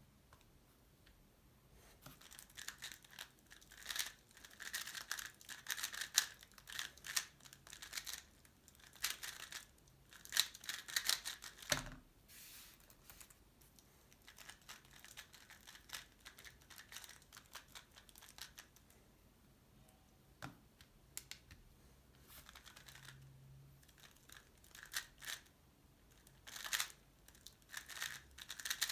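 Tornado V3 Pioneer 3x3 speedcube turned at speed: dense, rapid clicking and rattling of the layers in bursts of finger-tricks. A solid run of turning lasts about ten seconds, then eases to sparser turns before another fast burst near the end.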